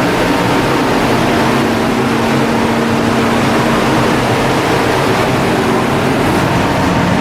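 A cargo ship's engine machinery running steadily: a loud, even drone with several constant hums. One of the hums fades out about four seconds in.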